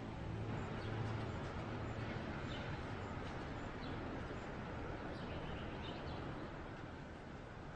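Birds chirping faintly now and then over a steady outdoor background hiss.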